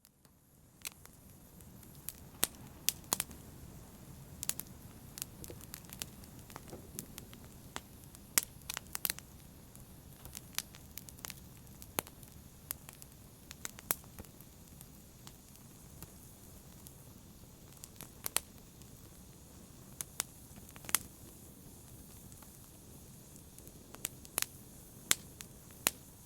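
Wood fire in a fireplace crackling: a steady low hiss of burning with irregular sharp pops and snaps, a few of them much louder than the rest. It rises out of silence right at the start.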